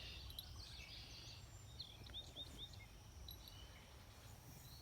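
Faint evening pond-side ambience: scattered bird chirps, with a quick run of four short chirps about two seconds in, over a faint steady insect drone and a low rumble.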